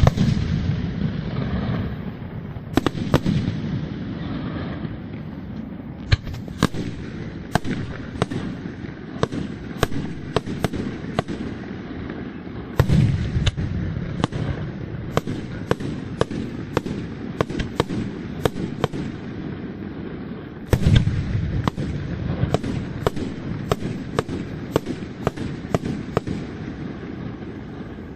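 Aerial fireworks display: a dense, steady run of sharp shell bursts and cracks. Heavier booming bursts stand out near the start, about halfway through and about three-quarters of the way through.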